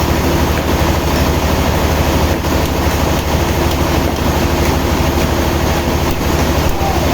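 Sawmill machinery running steadily: a heavy engine hum under constant mechanical noise.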